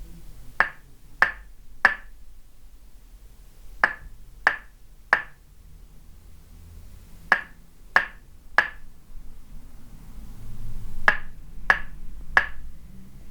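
Tok sen massage: a wooden mallet striking a wooden peg pressed on the body, making sharp hollow wooden knocks. They come in an even rhythm of three knocks about half a second apart, each group followed by a pause of about two seconds, four times over.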